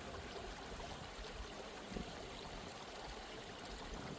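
Soft, steady sound of running water, like a gently flowing stream, laid under the meditation as a relaxing background.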